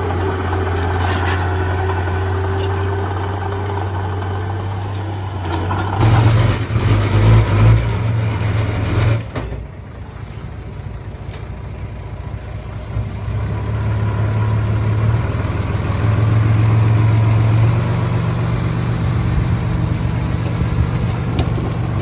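Heavy diesel engine of earthmoving machinery running steadily. It grows louder for about three seconds a quarter of the way in, drops back sharply, then builds up again and stays up.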